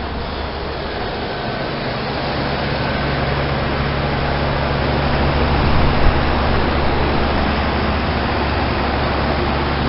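Outdoor heat pump unit running in heat mode: a steady low compressor hum under the fan's rushing air, growing gradually louder, with a single knock about six seconds in.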